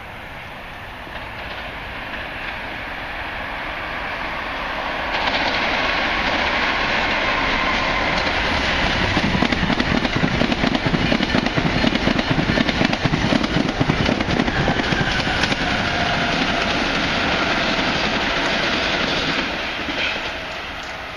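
Electric passenger train passing through a station at speed. A rushing noise builds as it approaches, jumps up sharply about five seconds in, and carries a rapid wheel clatter on the rails while the cars go by. It then falls away near the end as the train pulls clear.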